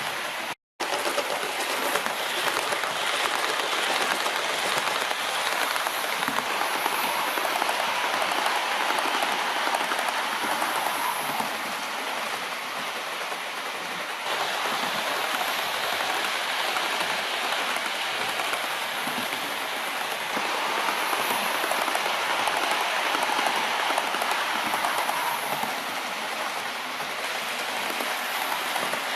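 Model trains running on the layout track: a steady rattling hiss of wheels on rails, with a brief break near the start and a small change in level about halfway through.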